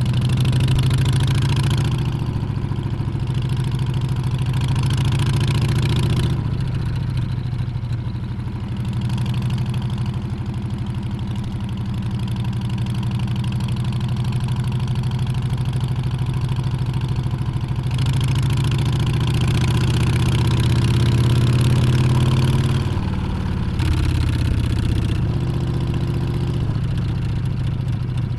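Harley-Davidson Street Bob's Milwaukee-Eight 114 V-twin running on the road, with wind and road noise. The engine note falls away about six seconds in and climbs again later as the throttle is rolled off and back on, dipping once more briefly near the end.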